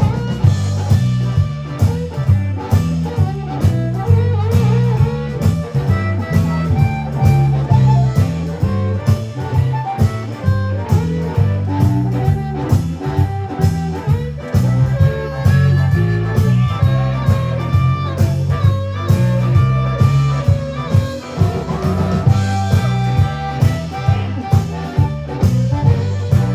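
Live blues band playing an instrumental break: a lead guitar with bending notes over bass and a steady beat.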